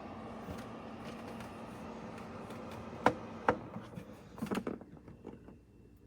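Electric fireplace space heater's fan motor running with a steady whir, then two sharp clicks, a quick cluster of clicks and knocks, and the running noise stops.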